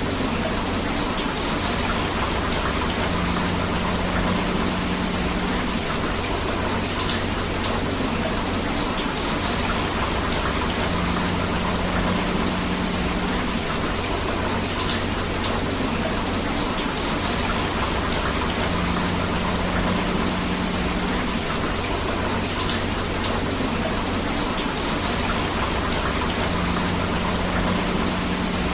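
Steady rain together with rushing river water: a constant, even hiss of falling and flowing water. A low hum comes in about every eight seconds and lasts two or three seconds each time.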